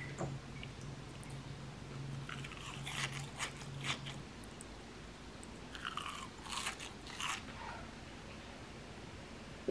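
Chewing on a deep-fried crab-stick croquette, its crisp breadcrumb crust crunching between the teeth in two spells a few seconds apart.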